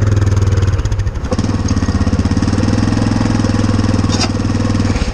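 Small off-road motor engine running steadily, with a choppy, pulsing stretch about a second in.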